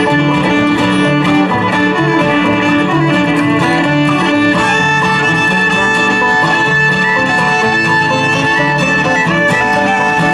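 Live bluegrass string band playing: fiddle over strummed guitar and banjo, with the fiddle holding a long high note from about halfway through.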